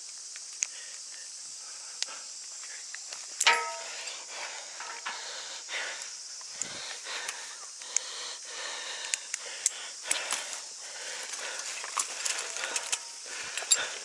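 A steady high-pitched insect drone with scattered clicks and rustling from handling and movement, and one sharp ringing clank about three and a half seconds in.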